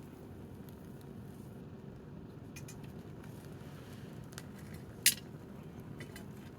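Wood fire burning with a low steady rumble and a few faint crackles, and one sharp pop about five seconds in.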